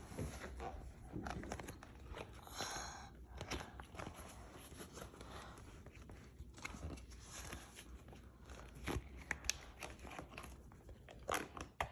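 Faint rustling and crinkling of a lawnmower grass collector bag being handled, with light clicks and knocks as it is worked onto its frame.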